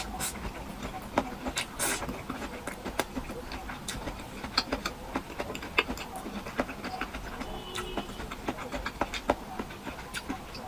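Close-up eating sounds: chewing with irregular wet mouth clicks and smacks, several a second.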